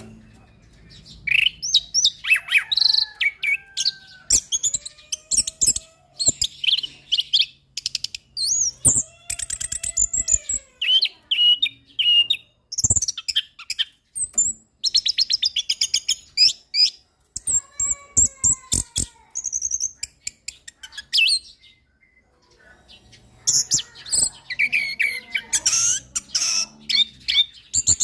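Orange-headed thrush singing a long, varied song of chirps, whistled phrases and rapid trills, broken by a short pause about three-quarters of the way through before it resumes.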